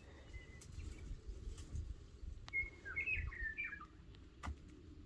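Birds chirping, a run of short whistled notes about halfway through, over faint low rumbling and a couple of sharp clicks.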